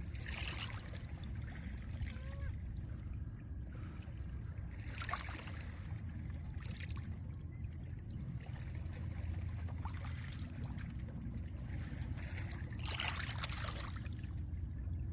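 Small lake waves washing onto a pebble beach, each one a hiss that swells and fades every few seconds, over a steady low rumble of wind on the microphone.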